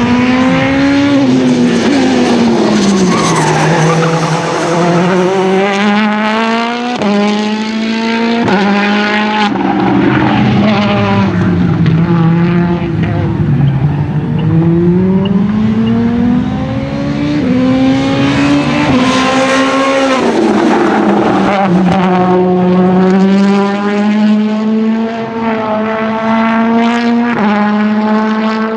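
Citroën C3 WRC Plus rally car's turbocharged 1.6-litre four-cylinder engine revving hard, its pitch climbing and falling repeatedly, with sudden drops at the gear changes.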